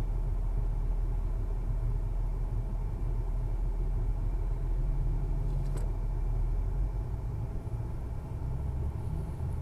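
Motorcycle riding, its engine and the rush of the ride making a steady low rumble that eases a little about seven seconds in, with one sharp click near six seconds.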